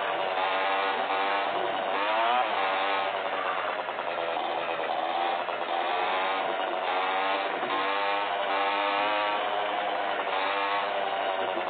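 Motorcycle engines revving, the pitch rising and falling in repeated swells every couple of seconds, typical of motocross bikes.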